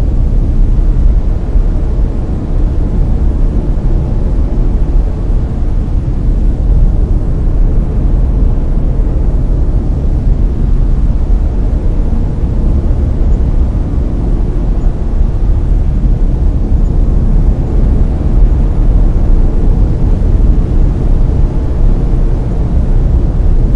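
Steady layered brown noise: a loud, even rumbling hiss weighted heavily toward the low end, with no changes or events.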